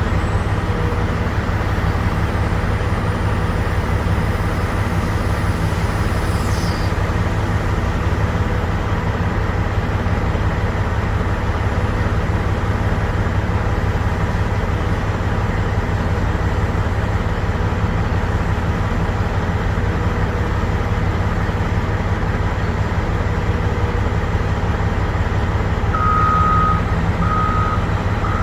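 Heavy truck diesel engine running steadily at idle. Near the end a vehicle's reversing alarm starts beeping, about one and a half beeps a second.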